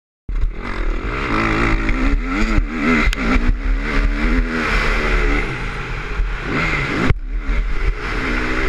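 KTM 250 motocross bike engine revving up and down over and over as it is ridden, with a heavy low rumble beneath. It cuts in suddenly just after the start and drops off briefly about seven seconds in.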